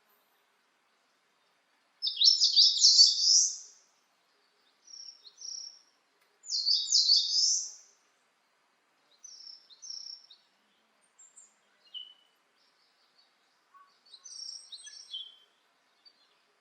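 Wild songbirds singing: two loud, fast, high song phrases of about a second and a half each, starting about two seconds and six and a half seconds in, with shorter, fainter chirps and calls from other birds in between and near the end.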